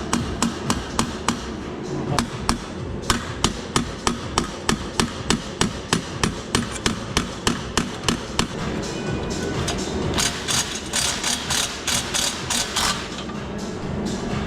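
Repeated hammer blows, about three a second at a steady pace, then a quicker run of strikes near the end, over background music.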